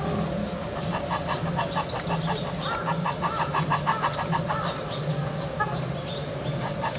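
Birds calling in an aviary: a rapid, continuous chatter of short repeated calls, with a few longer rising-and-falling calls around the middle, over a steady low hum.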